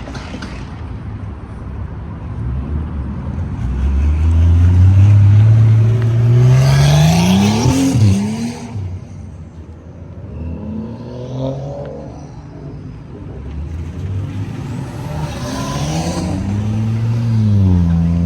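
Car engine accelerating hard: its pitch climbs steadily from about four seconds in to a peak near eight seconds, then drops away. A second, shorter rise and fall comes near the end.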